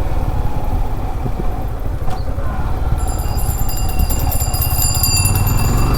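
Yamaha R15 motorcycle's single-cylinder engine running under way, a steady low rumble. A high, thin whine joins in about halfway through.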